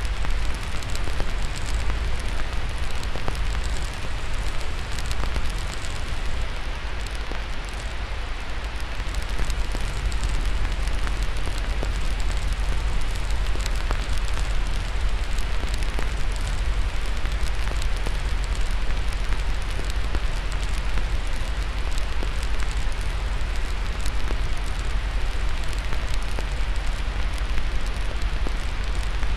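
Steady white-noise hiss layered with a crackling fire: many small pops and snaps scattered over the hiss, above a constant deep rumble.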